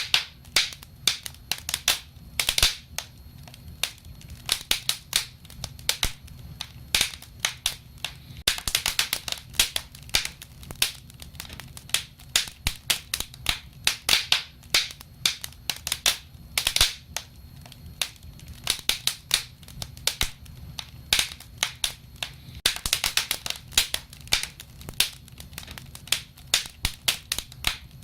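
Wood fire crackling: irregular sharp pops and snaps of burning logs, several a second, thickening into rapid clusters now and then, over a low steady rumble.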